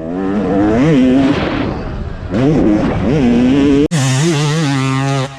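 Dirt bike engine running and revving, its pitch rising and falling with short throttle blips. About four seconds in, the sound cuts abruptly to a steadier engine note.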